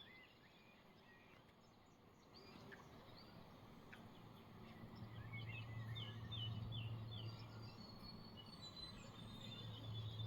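Small birds chirping and whistling faintly outdoors, with short calls scattered throughout. A low steady hum comes in about halfway through, drops away, and returns near the end.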